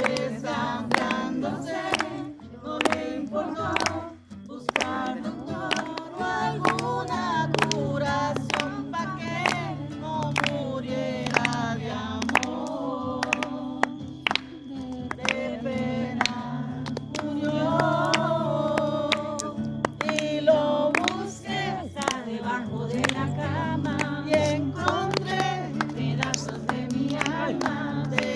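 Singing with music, the voices wavering in pitch over a steady low tone, with many sharp clicks scattered throughout.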